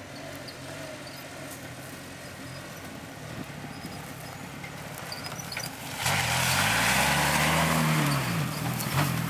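1979 GMC 4x4 truck engine running low, then about six seconds in revved hard, its pitch rising and falling again over a couple of seconds, with a loud rush of tyres spinning and churning through mud and water. Onlookers think its four-wheel drive isn't working.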